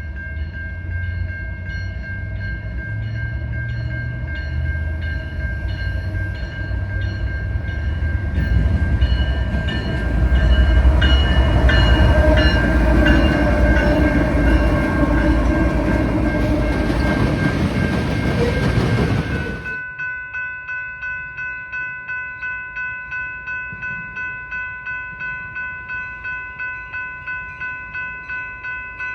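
A train rolling past with a heavy rumble and wheel clatter while a railroad crossing bell rings. About two-thirds of the way in the rumble cuts off suddenly, leaving the crossing bell ringing about twice a second.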